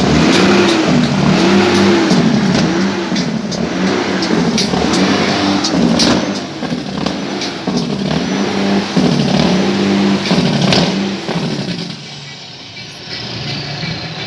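Truck engine revved over and over, its pitch rising and falling about once a second, with sharp cracks. It eases off near the end.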